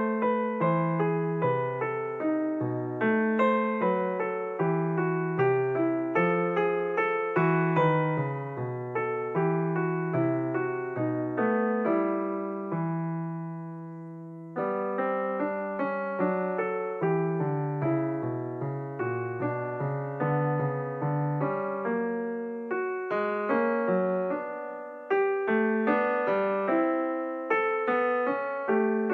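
Solo piano music: a steady stream of gently played notes, with one chord left to ring out and fade about halfway through before the playing picks up again.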